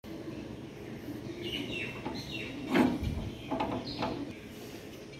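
Small birds chirping in the early morning, a few short falling calls. A single loud thump comes a little past halfway.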